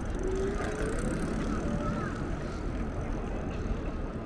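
Steady low rumble of city background noise, with a few faint, brief pitch-sliding sounds over it.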